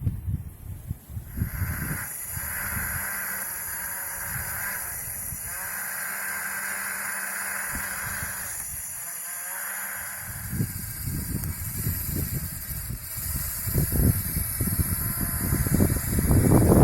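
Small DC motor of a homemade toy tractor running with a steady high whine, starting about a second in, with hissing and, in the second half, irregular knocks and rustling that grow louder near the end.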